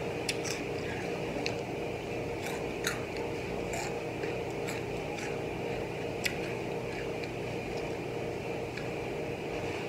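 Hot Cheetos (crunchy corn puff snacks) being bitten and chewed: a string of sharp, irregularly spaced crunches over a steady low hum.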